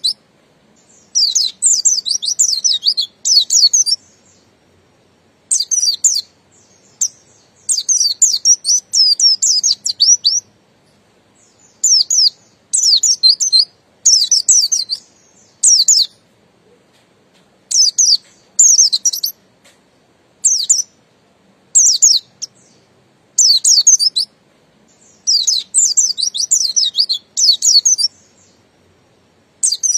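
A buxtoni white-eye (pleci) sings in repeated bursts of rapid, high twittering phrases, each half a second to two seconds long, with short pauses between them. This is the wild-style 'ngalas' song.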